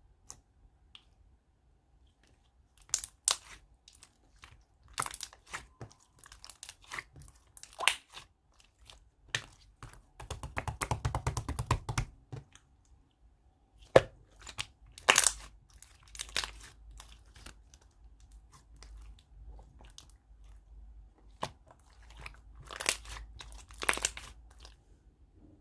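Kiwi slime being squished and stretched by hand: irregular sharp pops and clicks, with a dense run of fast crackling about ten seconds in and a single sharp pop a few seconds later.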